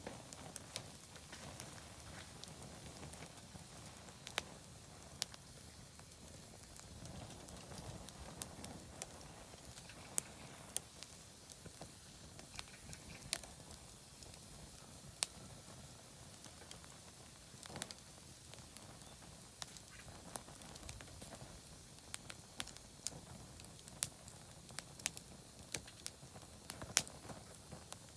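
Oak firewood burning in a campfire, crackling with sharp, irregular pops scattered over a low, steady hiss of the fire.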